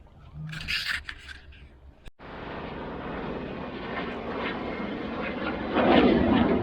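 F-16 fighter jet flying over: a steady jet roar that cuts in abruptly about two seconds in and grows louder, peaking near the end.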